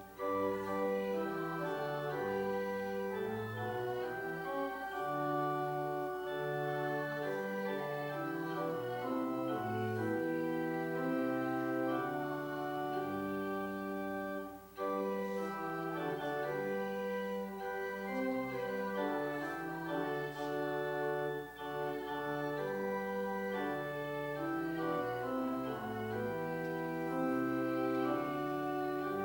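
Organ playing slow, sustained chords that change about once a second, with a short break about halfway through.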